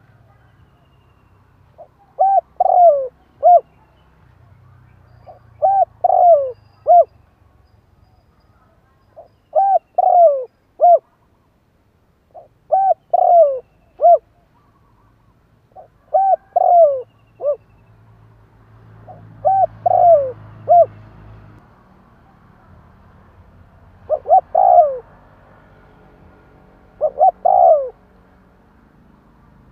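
Spotted dove cooing: eight short phrases of three or four coo notes each, repeated about every three and a half seconds.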